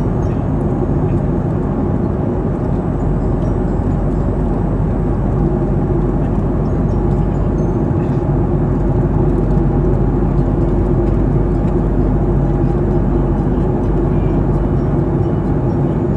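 Airliner in flight heard from inside the passenger cabin: a steady, loud drone of engines and rushing air, deepest in the low end, with no change in level.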